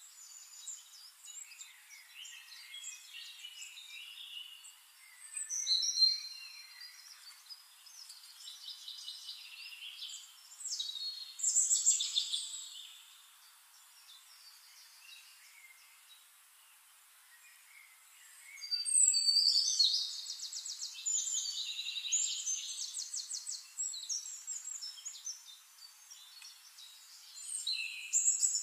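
Birdsong: high chirps, whistled glides and fast trills from small birds, in several louder phrases, with a long rapid trill about two-thirds of the way through.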